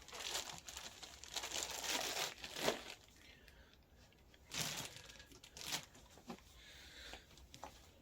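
Plastic packaging crinkling and rustling as the parts of a kids' ride-on quad are handled: steady for the first three seconds, then quieter with a couple of short rustles.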